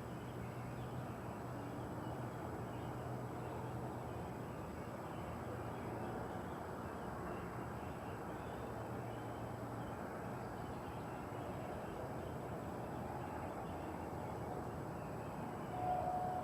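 A steady, unidentified roar with a low hum underneath for the first ten seconds, and a brief high note near the end.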